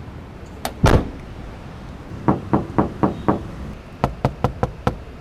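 Knocking on a car's bare sheet-metal body panel: one hard knock, then a run of five knocks and a quicker run of six. The panel rings like an empty tin can, the sign of a panel with no damping material.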